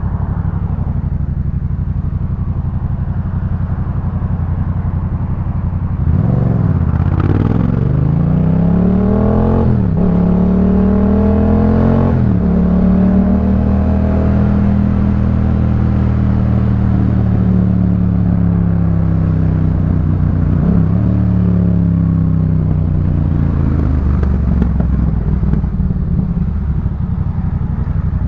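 2018 Yamaha MT-07's parallel-twin engine through a Jeskap K4 full aftermarket exhaust. It runs steadily at first, then accelerates hard about six seconds in, the revs climbing and dropping through three quick upshifts, before it settles into a steady cruise with a short dip in revs later on.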